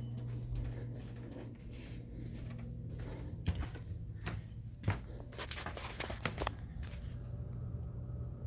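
Central air conditioner's outdoor condensing unit running with a steady low hum from its compressor, which the owner thinks is a reciprocating type; the hum really resonates through the fence. A few sharp clicks come around the middle.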